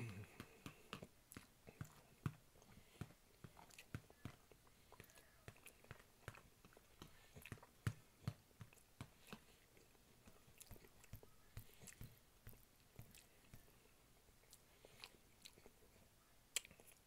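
Close-miked chewing of a mouthful of food, a steady run of wet mouth clicks and smacks, with a few sharper clicks of a metal fork against the plate.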